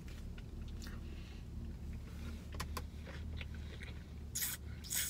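A man biting and chewing a KFC donut chicken sandwich, with soft mouth clicks, over a steady low hum. Two short noisy bursts come near the end.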